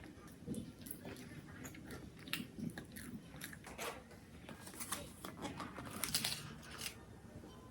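A person biting and chewing crunchy food close to the microphone: repeated wet crunches and crackles, with the loudest crunches near the end.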